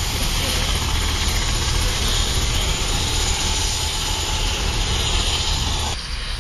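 Helicopter turbine and rotor running steadily, a loud continuous whine and rumble. The sound changes abruptly near the end.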